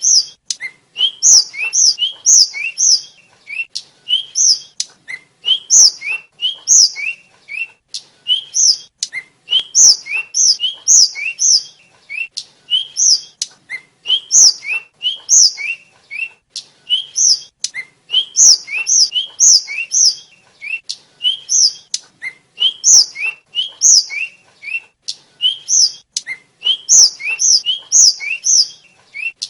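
Tledekan (sulingan) songbird singing without pause: rapid, repeating phrases of short, high chirping notes that sweep up and down in pitch.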